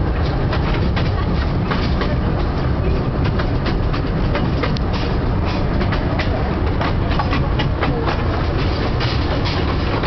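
A train running along the track, heard from on board: a steady rumble of wheels on rail with frequent irregular clicks and knocks.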